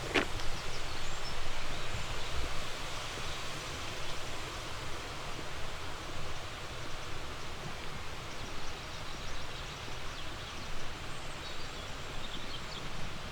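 Steady rushing of a flowing mountain stream, an even hiss without breaks, with a few faint high bird chirps near the start and near the end.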